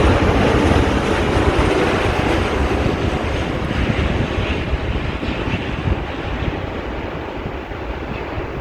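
Jet engine noise of a landing Boeing 787 wide-body: a steady rumble that slowly fades away.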